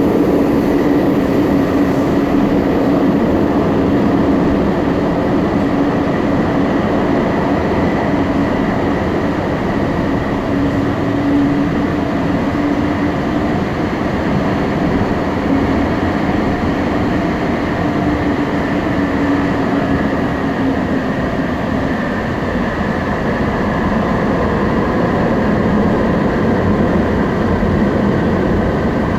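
Confederation Line light rail train (Alstom Citadis Spirit) running between stations, heard from inside the passenger car: a steady rumble of wheels on rail with a motor hum and a fainter whine that dips slightly in pitch later on.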